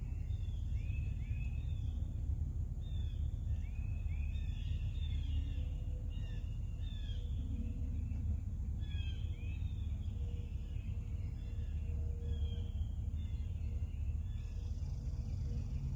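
Birds calling in short, repeated high chirps over a steady low rumble.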